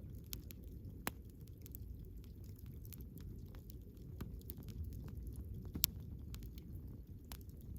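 Campfire crackling: many sharp, irregular pops and snaps over a low steady rumble of the burning fire, with a louder pop about a second in and the loudest near six seconds in.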